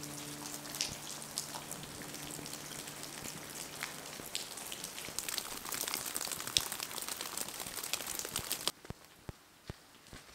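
Steady rain pattering, with many single drops ticking on leaves and rock. Just under nine seconds in it cuts off suddenly, leaving a quieter background with footsteps on a dirt track, about two a second.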